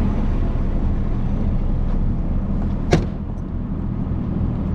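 Motorcycle engine running steadily under a noisy rumble, with one sharp click about three seconds in.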